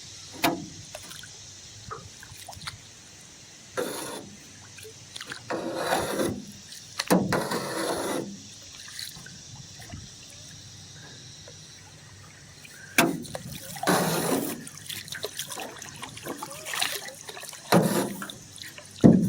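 Paddle strokes in pond water: a series of irregular swishes and splashes from a small boat being paddled against the wind.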